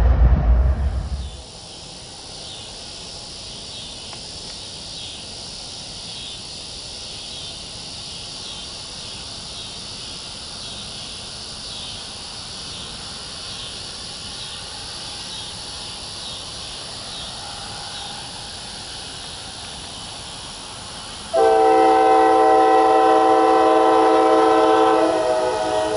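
Train horn sounding one long chord of several notes, starting suddenly about five seconds before the end and held for about four seconds. Before it there is a steady high hiss, and a low rumble cuts off about a second in.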